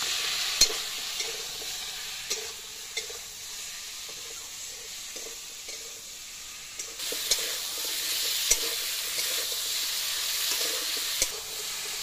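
Taro pieces sizzling in hot oil in an iron wok while a metal spatula stirs them, with now and then a sharp click of the spatula striking the pan. The sizzle dies down for a few seconds in the middle and picks up again about seven seconds in.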